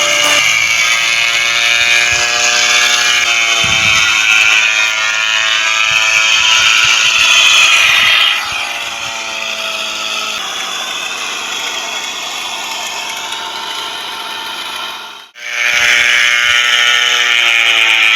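Small electric motor of a toy airplane whirring steadily, its pitch shifting slightly a few times, cut off briefly about fifteen seconds in before it resumes.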